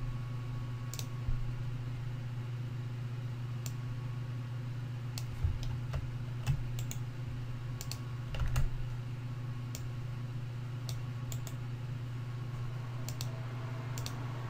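Scattered computer keyboard keystrokes, a few isolated clicks every second or so, as a file path is typed into a configuration file, over a steady low hum.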